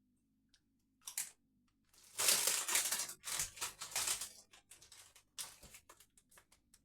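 Potato crisps being crunched and chewed close to the microphone. There is a short crunch about a second in, then a dense run of crunching about two seconds in that thins to scattered crunches.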